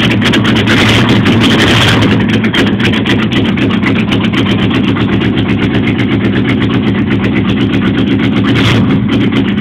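AMC 360 V8 with a two-barrel carburetor idling steadily and loudly, with a brief rise in hiss about a second in.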